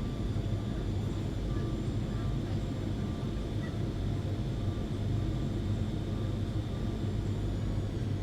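Jet airliner cabin noise: a steady low rumble of engines and airflow with a faint steady high whine.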